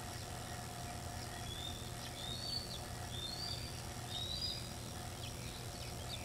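Outdoor night ambience: a steady low hum, with a bird giving a series of short, high chirps in the middle.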